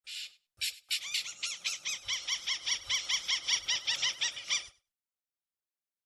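A crake calling: two short notes, then a fast, even series of repeated high notes, about seven a second, that runs for nearly four seconds and stops abruptly.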